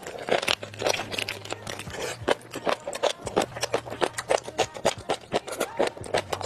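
Close-miked chewing of crunchy food: a dense, irregular run of crisp crunches and wet mouth clicks, over a low steady hum.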